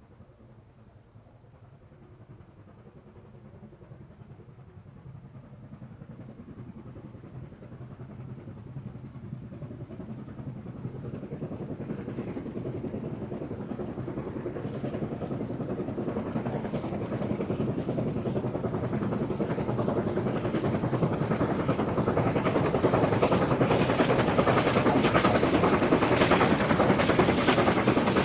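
China Railways QJ-class steam locomotive approaching while working, its exhaust chuffing growing steadily louder as it comes closer.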